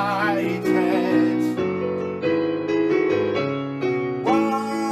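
A man sings the held, wavering word "united" over instrumental accompaniment. After about a second and a half the voice stops and the accompaniment plays on alone in sustained chords, changing chord about every second.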